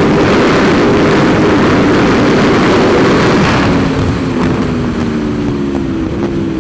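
Aprilia Tuono V4's V4 engine running hard at high revs under a heavy rush of wind noise. About four seconds in, the wind noise eases and the engine note falls slowly as the bike slows.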